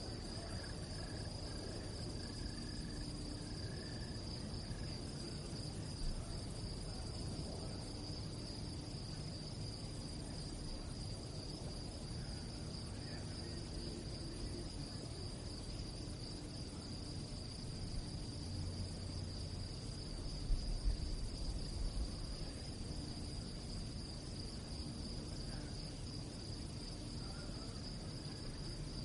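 Crickets chirping at night, a steady high-pitched trill with a fine pulsing texture. A low rumble lies beneath, with a few soft low thumps about two-thirds of the way through.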